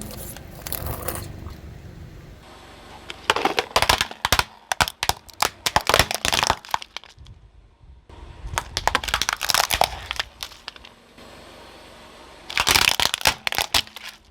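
Brittle objects cracking and crunching under a rolling car tyre, in four separate spells of dense crackling with quieter gaps between.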